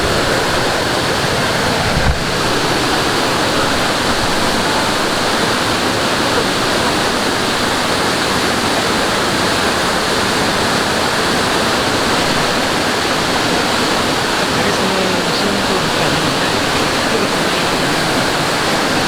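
Mountain valley stream rushing loudly and steadily at a swimming hole, its flow running high after recent rain.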